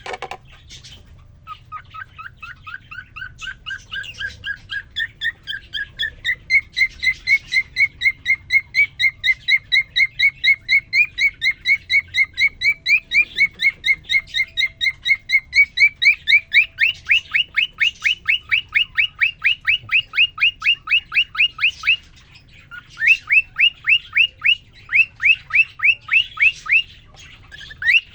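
Male cockatiel singing: a long, fast run of short repeated chirping notes that starts softly and climbs in pitch over the first few seconds, then holds steady and gets louder. About two-thirds in it steps up to a higher note, breaks off briefly, and comes back in short quick bursts.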